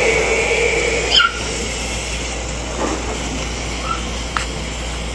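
A dog gives a short, high-pitched whine about a second in, as a steady hum cuts off; after that only a low background noise with a faint click.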